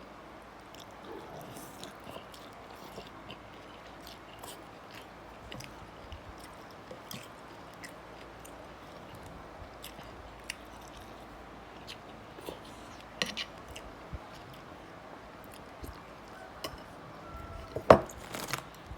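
A person chewing and biting food, boat noodles with crispy pork, with faint small clicks scattered throughout and a louder knock just before the end.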